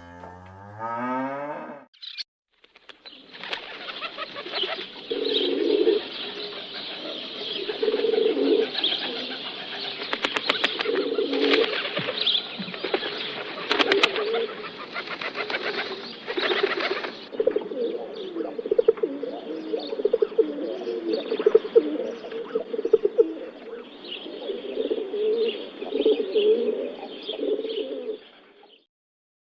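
A short animal call rising in pitch in the first two seconds, then birds cooing on and off with a hiss and scattered clicks behind, stopping shortly before the end.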